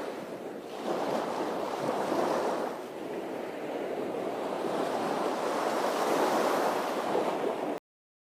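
Ocean surf: waves washing in a steady rush that swells and ebbs, cutting off suddenly near the end.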